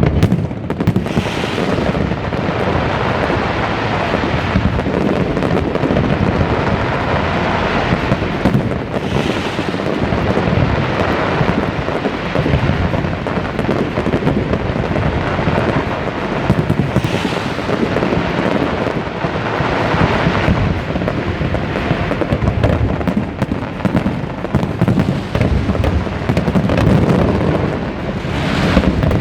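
Large fireworks display: a continuous, rumbling barrage of overlapping bursts, with several louder bangs standing out above it.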